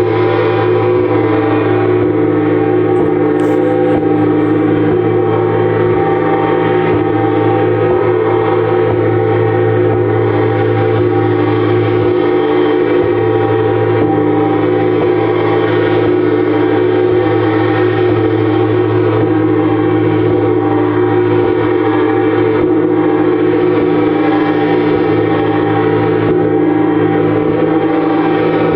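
Gongs played continuously as a dense, steady wash of many sustained ringing tones, with no separate strikes standing out and the level holding even throughout.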